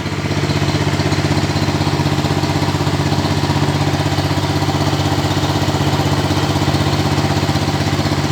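Motorboat engine running steadily at a constant speed, a low, even hum.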